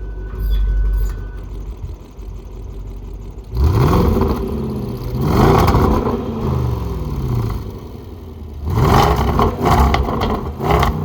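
Range Rover Sport SVR's supercharged 5.0-litre V8 just after a cold start, idling steadily, then revved in about four short blips, each rising and falling in pitch.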